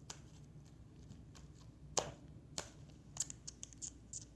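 Scattered light taps and clicks from small things being handled: a sharp tap about two seconds in, another about half a second later, then a quick run of small clicks near the end.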